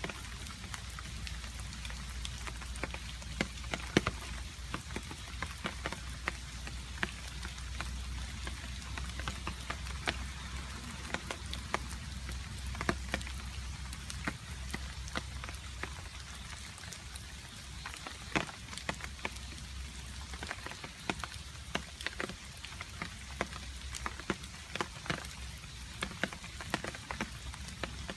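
Steady rain with water drops falling and dripping: a continuous hiss with many sharp separate drip impacts, several a second.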